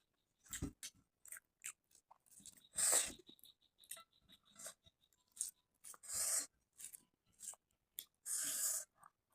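Close-up chewing of rice and fish curry: a string of short, wet mouth clicks and smacks, with three longer, louder mouth sounds spread through it.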